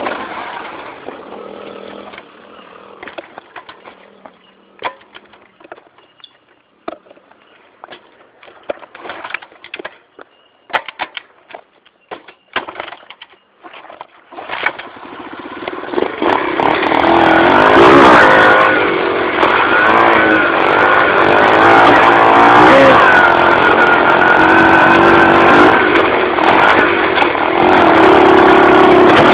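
Dirt bike engine that fades over the first couple of seconds, then a quiet stretch with scattered clicks and knocks. From about fifteen seconds in, the engine builds up again and runs loud, its pitch rising and falling with the throttle as the bike rides on.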